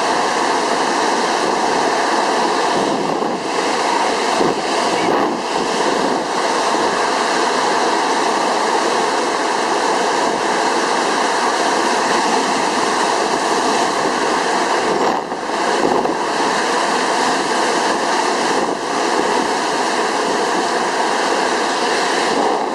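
Typhoon-force wind blowing hard and steadily, buffeting the microphone, with a few brief lulls.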